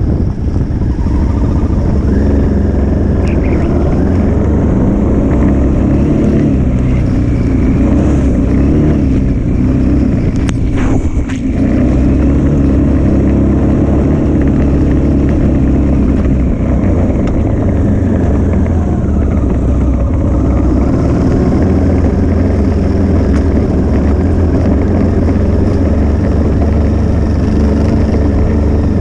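Motorcycle engine running steadily under load on a gravel track, with a short break in its sound and a few sharp knocks about eleven seconds in.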